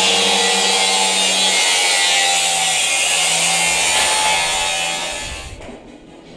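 A power tool running steadily with a loud hiss and a low hum, then dying away about five and a half seconds in.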